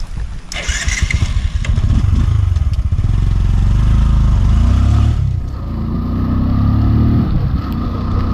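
Motorbike engine pulling away and accelerating, rising in pitch, easing off briefly about five seconds in, then picking up again.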